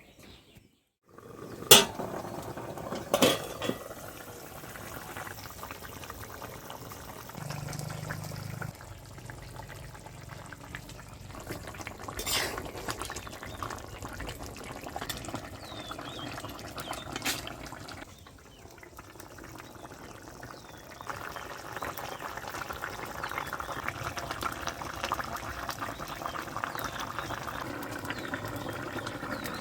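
Fish curry bubbling and simmering in a cooking pot, a steady sizzling, bubbling hiss. A few sharp clinks of a utensil against the pot cut through it. The bubbling drops away briefly past the middle, then comes back stronger.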